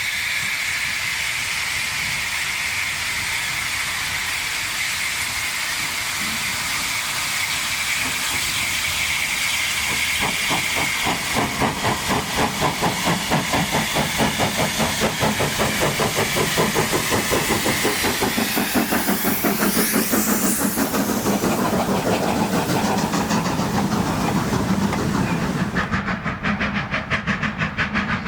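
Hawthorn Leslie 0-4-0ST saddle tank steam locomotive working hard up a steep 1 in 19 bank: a steady hiss of steam at first, then its exhaust blast starts up about ten seconds in as rapid, even beats that carry on to the end. The hiss drops away shortly before the end, leaving the exhaust beats.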